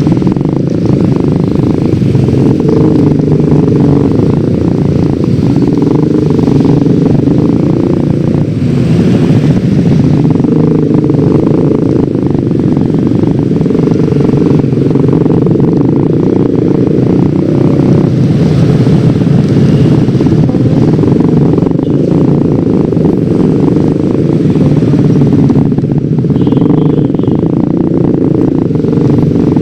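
Yamaha X-Ride 113cc scooter's single-cylinder engine running steadily while riding, mixed with wind buffeting the microphone.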